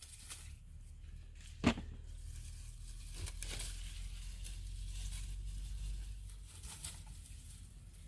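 Rustling and crinkling of dry plants as someone walks through a farm plot, over a low rumble on the microphone, with one sharp click about a second and a half in.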